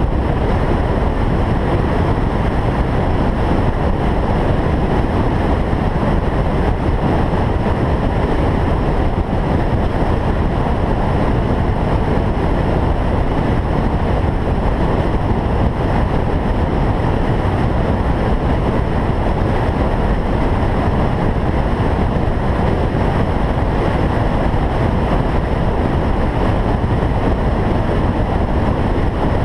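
A single-turbo Toyota Supra driving at a steady speed: a constant, loud rumble of road and running noise, heaviest in the lows, with no revving or gear changes.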